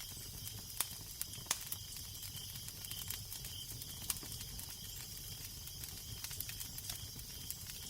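Fire crackling, with scattered sharp pops over a steady hiss, and a low wind rumble underneath.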